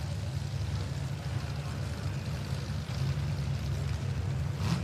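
Several demolition derby cars' engines running at low speed as the cars roll into the arena, a steady low drone. A short knock about four and a half seconds in.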